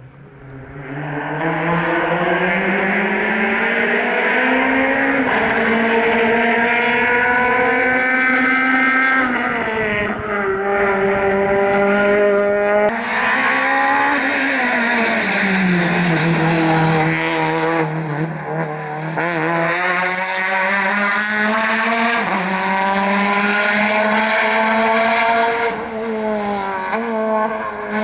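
Rally car engine at full throttle, loud throughout, repeatedly revving up and dropping back in pitch at gearshifts and lifts.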